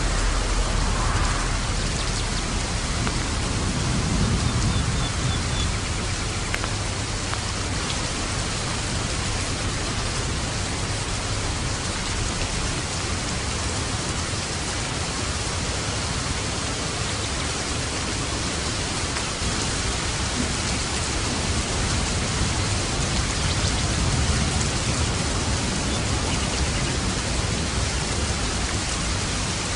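Steady heavy rain falling, a constant even hiss of drops.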